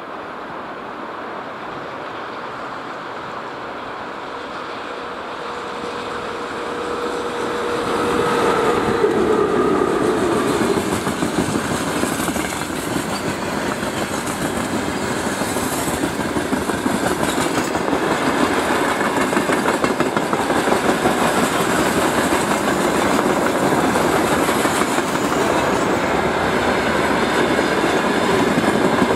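VL82M dual-system electric locomotive approaching and passing with a steady tone that drops in pitch as it goes by about eight seconds in. It is followed by a long freight train of wagons rolling past, the wheels clacking over the rail joints.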